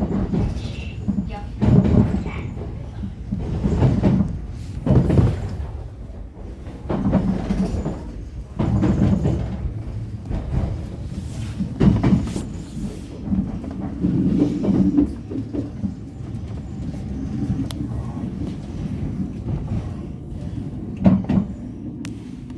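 Seoul Subway Line 1 electric train running, its wheels knocking over rail joints and points every second or two, growing quieter near the end as it slows into the terminus.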